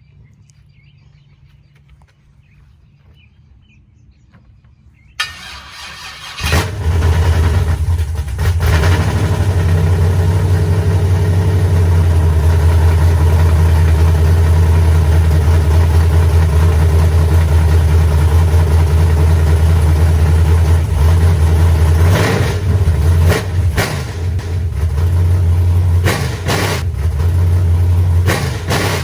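A 6.0 L LS V8, just swapped into a Chevy S10, is started for the first time: after a few quiet seconds it cranks briefly about five seconds in, catches, and runs loud and steady with a few brief surges.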